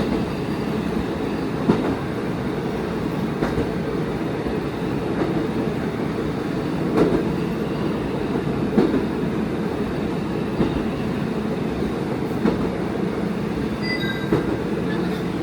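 A diesel railcar running along the line, heard from the driver's cab: a steady low rumble of engine and wheels, with a sharp wheel click over a rail joint about every two seconds.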